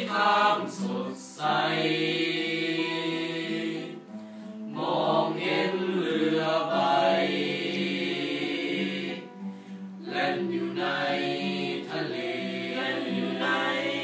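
A group of voices singing a song in a choir-like sound, phrase after phrase, with short breaths between phrases.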